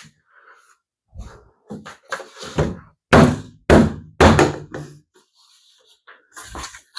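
Hollow plastic pool-ladder sections being knocked down onto the frame: a run of heavy thunks, loudest in the middle, as the section is forced further down until its locking balls catch.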